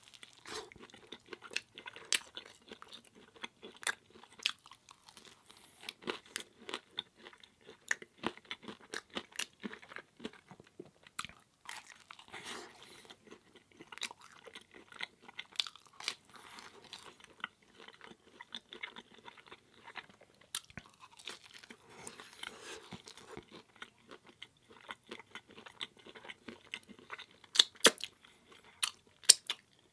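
Close-miked chewing of thin, cracker-like Daiya pizza crust: frequent crisp crunches and wet mouth clicks, with a few louder crunches near the end.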